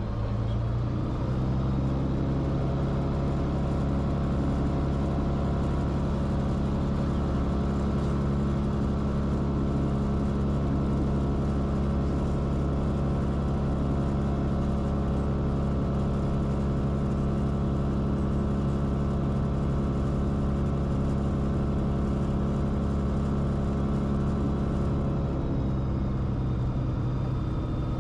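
Engine and propeller drone of a Cessna Corvalis TTX in flight, from its turbocharged six-cylinder Continental engine. The tone is steady, settling about a second in and shifting slightly in pitch near the end with a power change.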